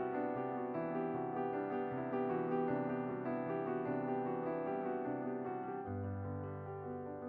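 Background piano music: a steady run of notes over held bass notes, with the bass shifting lower about six seconds in.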